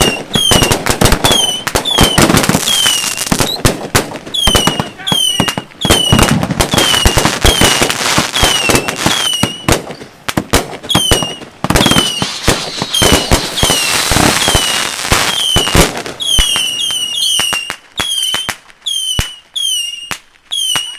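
Consumer fireworks cake firing a dense, rapid string of shots and bursts, with short falling whistles repeating about twice a second over them. The firing thins to sparser pops after about 17 seconds.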